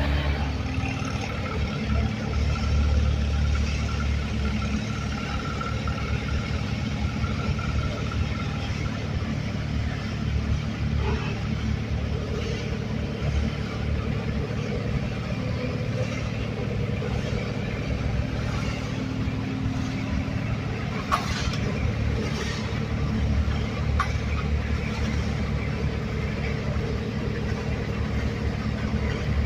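An engine running steadily with a low rumble, with a couple of sharp clicks about two-thirds of the way through.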